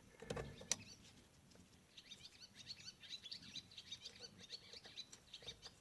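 Faint bird chirping: a rapid string of short, high chirps starting about two seconds in, with a sharp click near the start.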